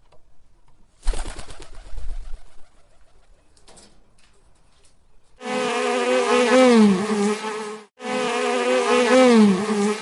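A buzzing insect: a loud, steady buzz with a slowly wavering pitch that starts about five seconds in, breaks off briefly near eight seconds and resumes. Before it, a short rustling noise about a second in.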